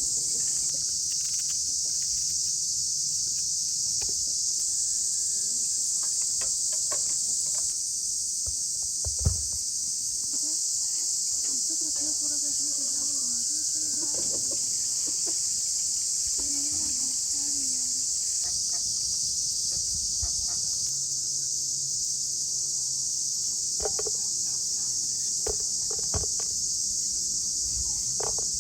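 Steady high-pitched insect chorus, crickets or cicadas, droning without a break. Scattered clicks and knocks sound over it, the sharpest about nine seconds in.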